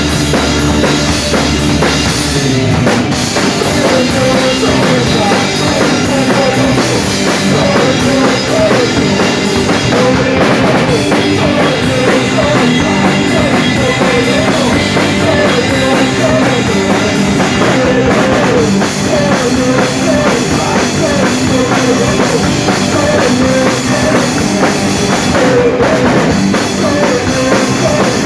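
Rock band playing live: drum kit and guitar, loud and unbroken throughout.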